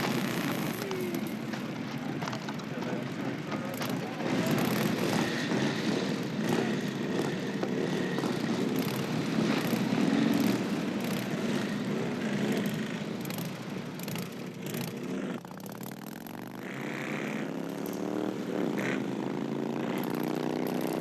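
Several motorcycles started up and revving together in a dense, loud mix of engines. About fifteen seconds in the mix thins to a single engine whose pitch rises steadily as it pulls away.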